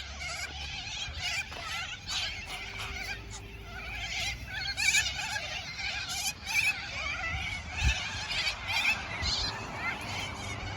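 A flock of white parrots chattering, with many short, high chirps overlapping without a steady rhythm.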